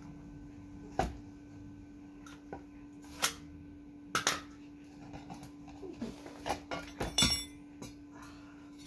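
A few separate sharp knocks and metal clinks, as of steel pieces being handled and set down, with a short rattling scrape about seven seconds in, over a steady low hum.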